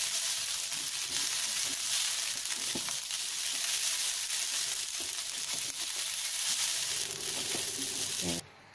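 Rice vermicelli sizzling as it is stir-fried in a hot aluminium wok, the noodles starting to cook through, with a wooden spatula scraping and tapping the pan now and then. The sizzling cuts off suddenly near the end.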